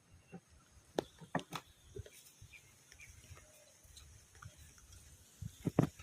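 Scattered sharp knocks and clicks: three about a second in, then a louder cluster near the end.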